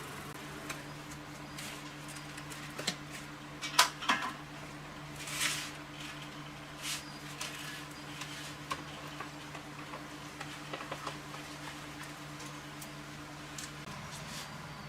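Scattered clicks and taps of small hard parts being handled, the loudest pair about 4 seconds in, with a brief scrape soon after, over a steady low hum.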